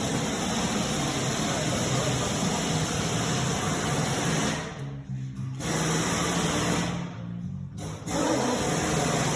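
KAMAZ 740.632 eight-cylinder turbocharged Common Rail diesel engine running steadily with a fast mechanical clatter over a low hum; the clatter drops away briefly twice, about five and seven seconds in.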